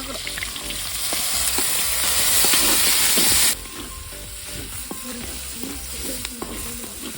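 Onions frying in hot oil in a kadai, a steady loud sizzle with the scrape of stirring. The sizzle drops abruptly to a quieter level about three and a half seconds in.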